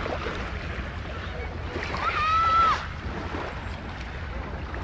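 Sea waves washing, over a steady low rumble. A little after two seconds in, a person's voice gives one high call held for under a second.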